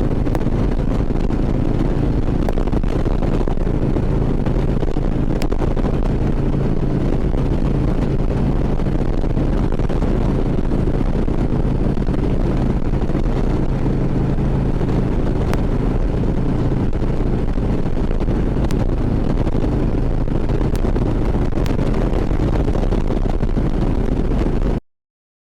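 Harley-Davidson touring motorcycle's V-twin engine running steadily at cruising speed, heard from the rider's helmet microphone with wind noise over it. The sound cuts off abruptly near the end.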